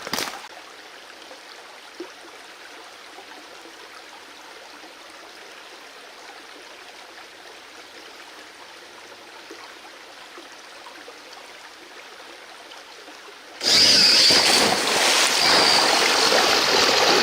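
Creek water running steadily and quietly. Near the end a much louder rushing noise starts suddenly.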